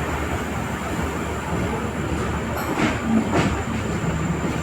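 Passenger train with LHB coaches running: a steady rumble and noise, with a few sharp clicks about three seconds in.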